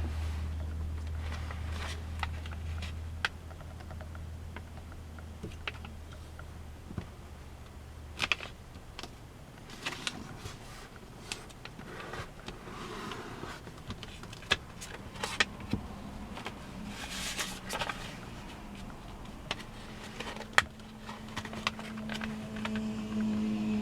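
A sheet of origami paper being handled, folded and creased: scattered crisp crackles and snaps of the paper. A low steady hum underneath fades out about a third of the way in.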